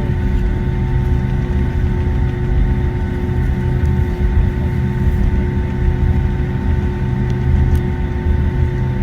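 Boeing 757-200 cabin noise during taxi: a steady low hum from the jet engines at low thrust, with several steady tones over the rumble. A couple of faint ticks come near the end.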